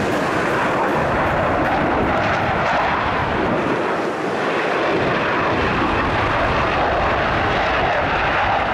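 Fixed-wing aircraft engines at an airshow: a loud, steady noise with no clear pitch, easing slightly about four seconds in.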